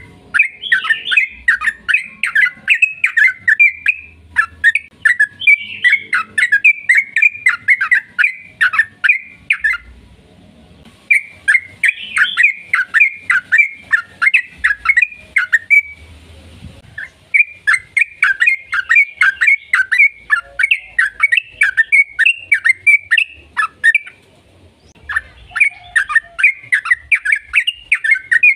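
Yellow-vented bulbul (trucukan) singing: long runs of rapid chattering notes, several a second, in bouts of about five seconds with short pauses between.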